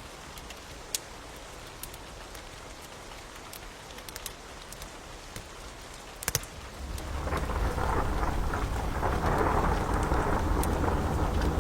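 Steady rain with scattered sharp crackles and pops from a wood fire. About seven seconds in, a low rumble of thunder swells up and keeps rolling.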